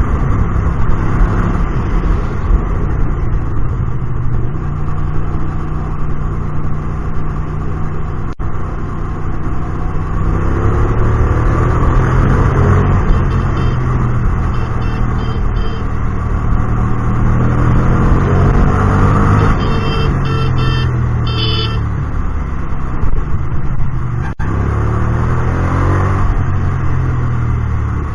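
Hyosung GT250R's 250 cc V-twin with an aftermarket exhaust, ridden in traffic, its revs rising and falling again and again through the gears. A short high beeping cuts in about two thirds of the way through.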